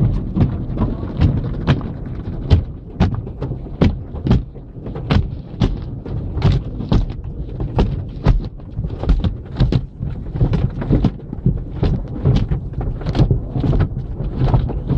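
Car wash at work: water spray and wash brushes slapping and thudding irregularly against a car's bodywork, a couple of knocks a second over a steady low rumble.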